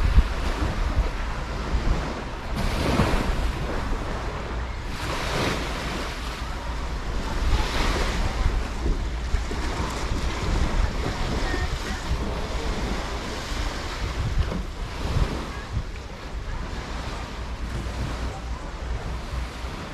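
Small sea waves washing in on the beach in swells every two or three seconds, with wind buffeting the microphone.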